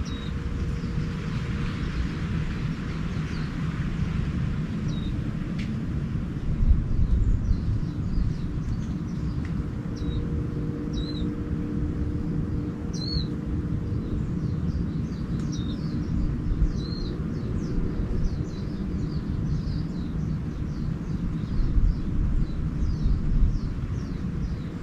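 Small songbirds chirping in short, high calls, a few at first and then a quick run of chirps from about halfway through, over a steady low rumble.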